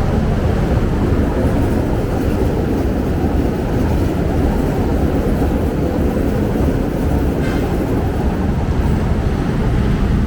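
Steady, loud low rumble of heavy vehicles.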